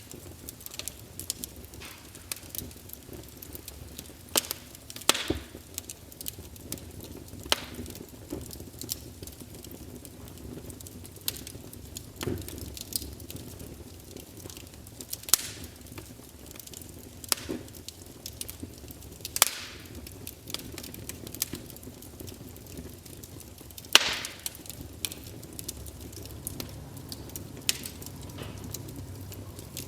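Wood campfire crackling: irregular sharp pops and snaps over a steady low rumble of the flames, with a few louder pops, the loudest about 24 seconds in.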